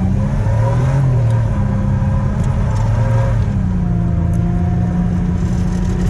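Supercharged Pontiac 6000 wagon's engine running, its pitch rising and falling for the first second or so, then holding steady.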